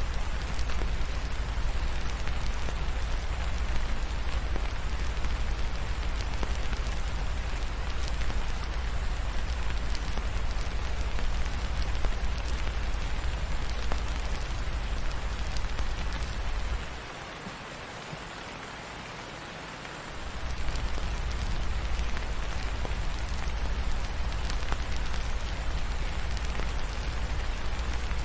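Steady rain falling, an even hiss of drops with a deep low rumble underneath. The rumble drops away for about three seconds a little past halfway, leaving the rain alone and quieter, then comes back.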